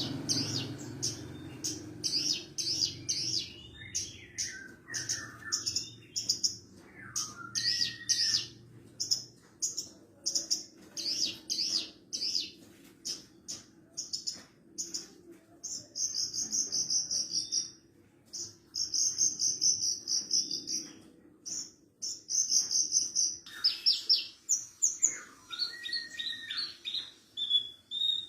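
Branjangan parva (Horsfield's bush lark, Mirafra javanica parva) singing a long, varied song: rapid high chirps and buzzy trills, broken by occasional lower slurred notes that sweep down in pitch.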